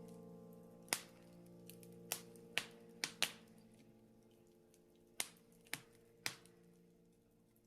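Wood fire in a fireplace crackling, with about eight sharp pops scattered irregularly, over a soft sustained musical drone that slowly fades.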